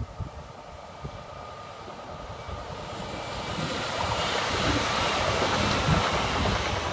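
X50 Regina electric multiple unit approaching and running over the level crossing. The rumble of wheels on rail and a rushing noise build steadily and are loudest about four to six seconds in as the train passes.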